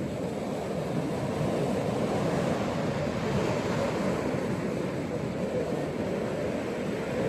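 Gentle ocean waves washing on a beach: a steady, even rushing noise without distinct breaks.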